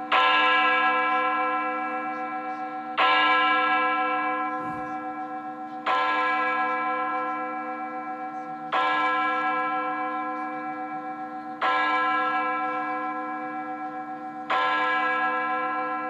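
A large bell tolling slowly: six strikes about three seconds apart, each ringing on and fading before the next.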